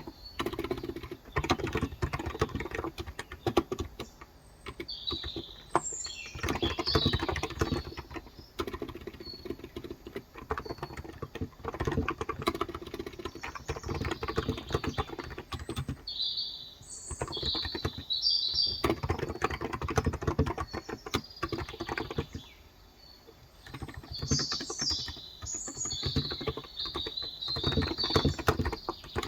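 Fast typing in bursts on a Cox Endeavor electrocapacitive keyboard with 35 g switches, its keys giving soft, dense clicks, with a short pause a little after 16 s and another around 23 s. Birds chirp outside, mostly around 6 s, 17–19 s and 24–28 s.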